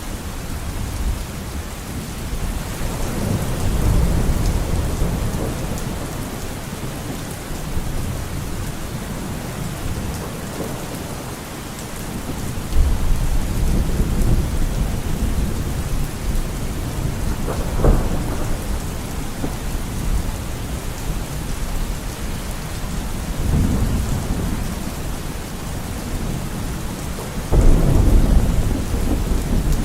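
Steady heavy rain with thunder rumbling repeatedly, several low rolls swelling and fading, and a sharper crack about two-thirds of the way through.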